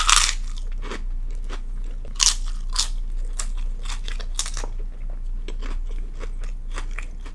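A person bites into food held in the fingers with a sharp crunch, then chews with many crisp crunching clicks, close to the microphone.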